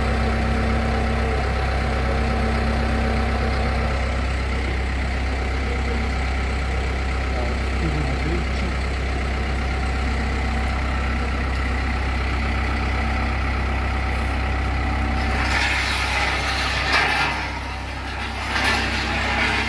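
An engine running steadily at idle with a low, even hum. Near the end a burst of louder clattering noise comes in with a sharp knock, and the engine's low hum briefly drops away.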